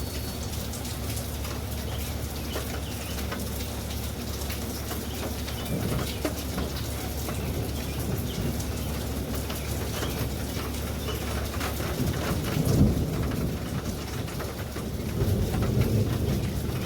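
Steady thunderstorm rain, with close drops ticking sharply on a surface. A low rumble of thunder swells about three-quarters of the way through and again near the end.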